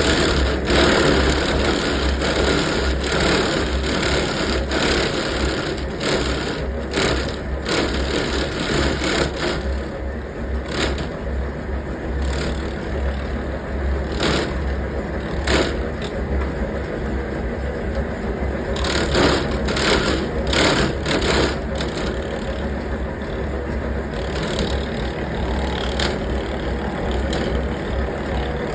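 Old clog-hollowing copy machine running, its cutter boring out the inside of a wooden clog as a linked stylus traces a mold. Steady motor hum under uneven bursts of wood being cut.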